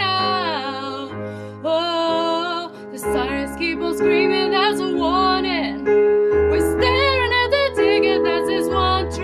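A singing voice carrying a slow, sustained melody over piano accompaniment.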